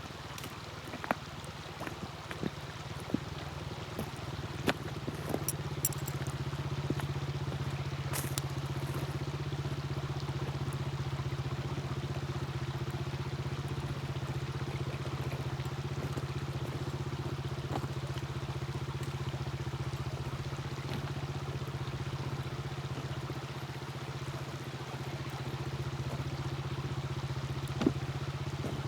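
Small wood fire crackling in a mini fire stand: sharp pops and snaps, most of them in the first several seconds and one more near the end. Under it runs a steady low engine-like hum that grows slightly louder after about five seconds.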